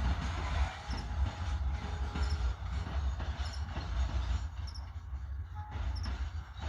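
Freight train cars rolling past with a steady low rumble and irregular clacks of wheels over rail joints, plus a faint brief wheel squeal.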